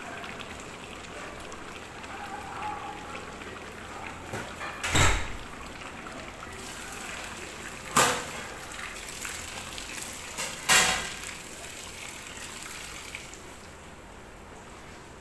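Steady hiss of food cooking in a pot, broken by three sharp knocks about five, eight and eleven seconds in.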